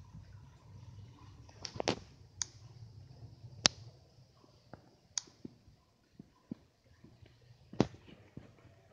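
Scattered sharp clicks and taps at irregular intervals, the loudest about two, four and eight seconds in.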